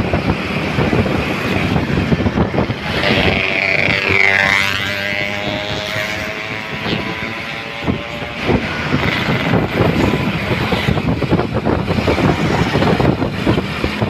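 Heavy road traffic passing close by: diesel trucks running past, with a whine that sweeps down in pitch as one goes by about four seconds in.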